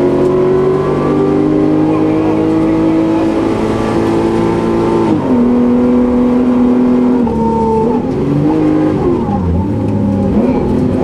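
Rally car engine heard from inside the cabin, pulling hard on a tarmac stage: the engine note climbs slowly, drops sharply about five seconds in at an upshift, then dips and rises again near the end as the car slows.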